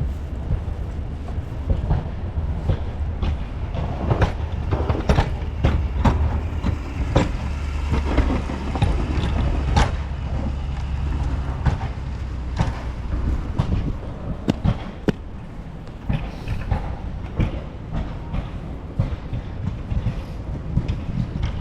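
Footsteps in snow, a few irregular steps a second, over a low rumble that fades about two-thirds of the way through.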